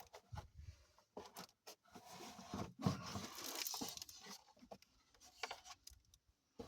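Handling noises: scattered small clicks and knocks, with a rustling, scraping sound for about two seconds in the middle.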